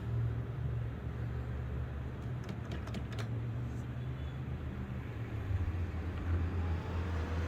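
Fans of a Zotac Twin Edge RTX 3070 graphics card running with a steady low rumbling drone, the fan rattle the card is known for. A few faint clicks come about two and a half to three seconds in, and a faint rising tone comes in near the end.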